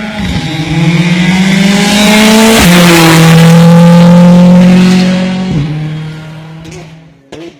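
Rally car accelerating hard past at full throttle. The engine note climbs and steps down at each upshift, twice, loudest about halfway through, then fades as the car goes away.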